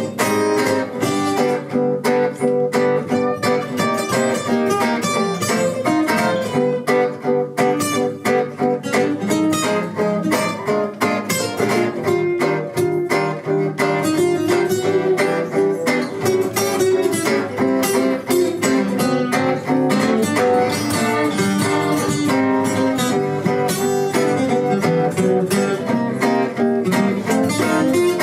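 Instrumental music led by plucked acoustic guitar, a busy run of picked notes over a steady accompaniment.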